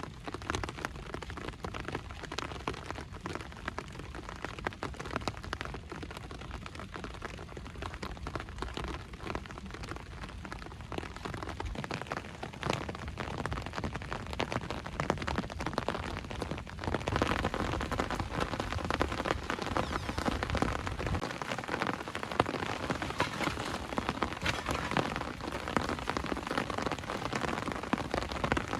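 Steady rain falling, with many separate drop hits over an even hiss; it grows heavier a little past halfway.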